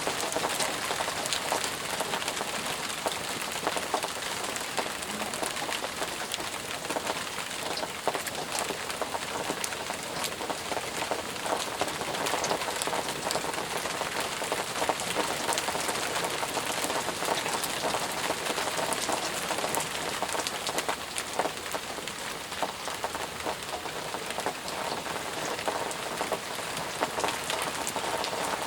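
Steady heavy rain falling in a forest, an even hiss with many close, distinct drops pattering on surfaces.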